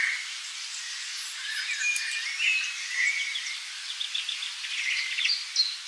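Nature ambience: a steady high hiss with many short, high chirps scattered through it, with no low sound at all.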